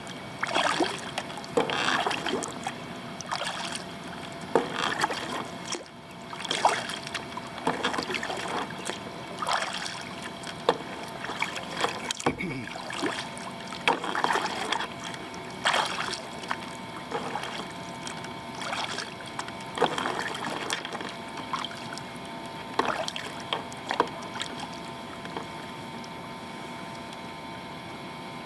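Kayak paddle strokes in flat water, each blade dipping in with a short splash about every second, thinning out near the end.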